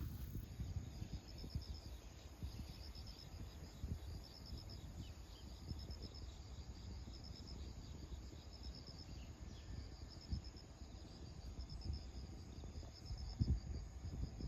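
Insects chirping: short pulsed trills repeating about every second and a half, over a steady low rumble.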